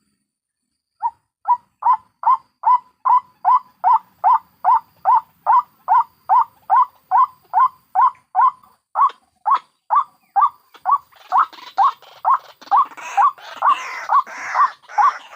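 White-breasted waterhen (ruak-ruak) calls from a lure recording that mixes adults and chicks. After about a second of silence comes a steady run of repeated calls, about two and a half a second. From about eleven seconds in, a rougher, overlapping chorus of calls joins over them.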